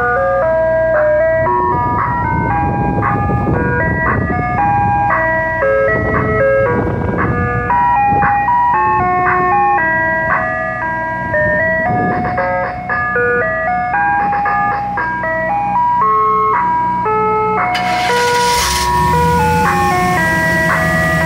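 Soft-serve ice cream truck's jingle playing a melody of single chime notes over the low rumble of the truck's running engine. About eighteen seconds in a brief hiss sounds and the engine rumble grows louder.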